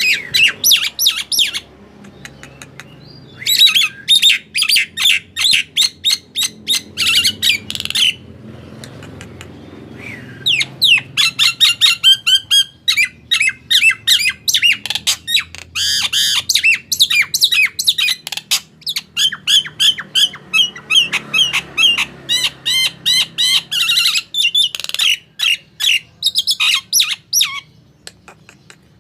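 Male Nias hill myna calling in long volleys of rapid, loud, sharp squawks and whistles, broken by two short pauses in the first third.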